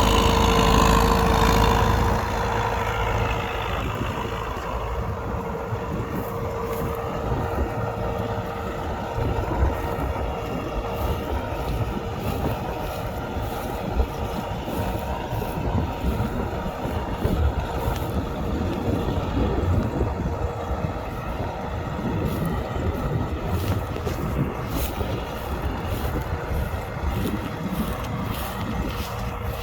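U650 tractor's four-cylinder diesel engine running steadily under load while pulling a plough, louder for the first two seconds and then a little quieter. Wind buffets the microphone.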